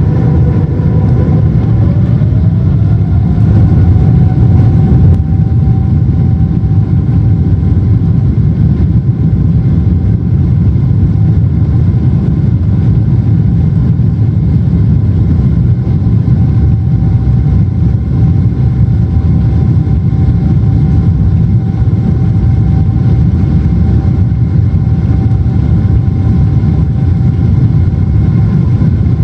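Cabin noise inside a Boeing 777-200ER in flight: a loud, steady rumble and rush from its two GE90 engines and the airflow. A steady engine tone rises in pitch about two seconds in, then holds.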